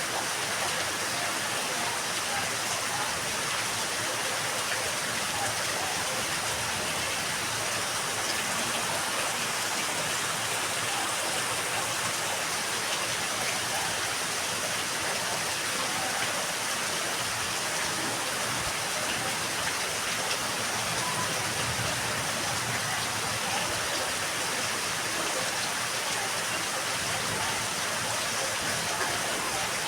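Steady rain falling, an even, unbroken hiss that holds at the same level throughout.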